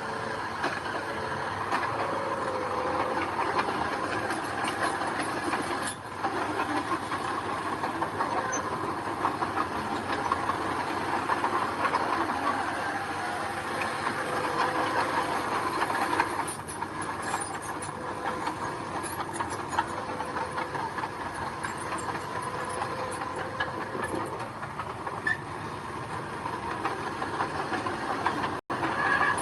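Heavy diesel earthmoving machinery running steadily under work, an engine drone with a continuous metallic rattle and clatter. The sound cuts out for an instant near the end.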